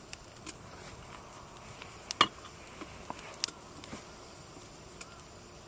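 Wood campfire crackling: a few sharp, irregular pops over a low steady hiss, the loudest about two seconds in.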